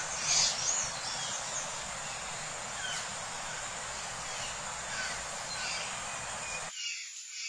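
Birds chirping with short, repeated calls, most intense about half a second in, over a steady background hiss that cuts off abruptly near the end.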